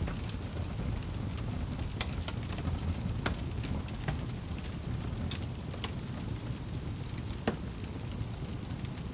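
Wood fire crackling in a fireplace: a steady low rumble of burning with irregular sharp pops and snaps, a few louder ones about two, three and seven seconds in.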